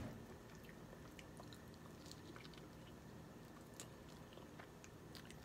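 Faint chewing with small scattered clicks as snow crab meat is pulled from the shell and eaten.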